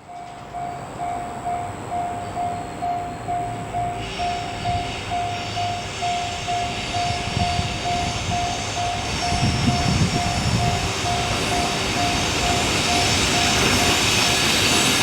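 Railway level-crossing warning bell ringing about twice a second as a freight train approaches, the train's rolling noise growing louder. The bell stops about fourteen seconds in.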